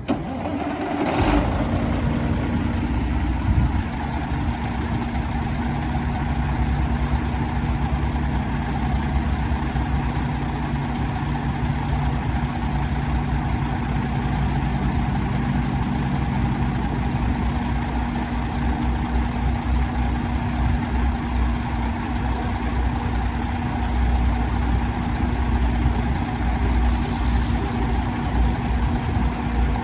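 Diesel engine of a 1994 Ford 9000 dump truck idling steadily, with a deep, even rumble after a brief burst about a second in.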